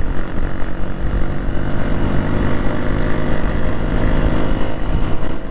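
Hero XPulse 200 single-cylinder motorcycle engine running steadily under way, with low wind rumble on the microphone.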